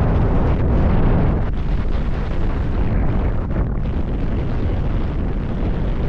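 Strong blizzard wind blowing steadily and buffeting the microphone, a dense low rumble of wind noise.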